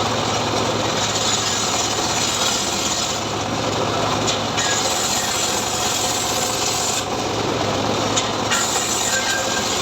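Homemade engine-driven sawmill cutting sengon wood: a continuous rasping saw noise over a steady low machine hum, the noise brightening and dulling every couple of seconds as the blade works through the timber.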